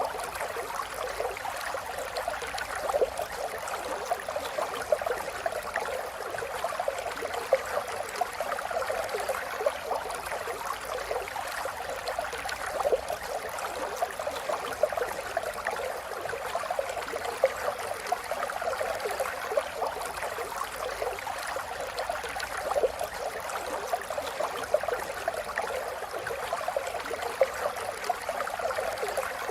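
River water flowing steadily over rocks, a continuous rushing with small splashes and gurgles throughout.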